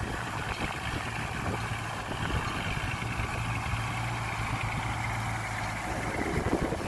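Heavy diesel engine of an earthmoving machine running steadily at low revs with a low, even hum. Near the end it turns rougher, with clattering.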